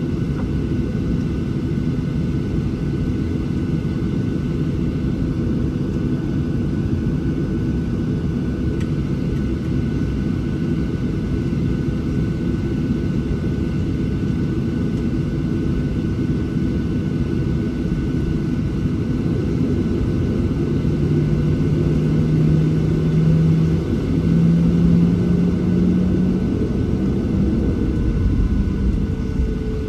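Steady low rumble in the cabin of a Boeing 737-700 on the ground, its CFM56-7B jet engines running. About two-thirds of the way through, a low engine hum comes in and slowly rises in pitch as the engines spool up.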